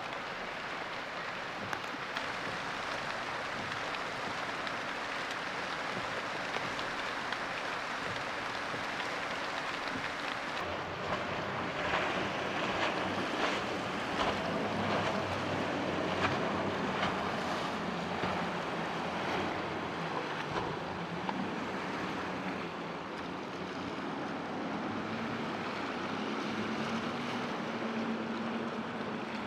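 Boat engine running as the boat crosses rough inlet water, over the sound of surf and wind on the microphone; the engine's pitch rises near the end.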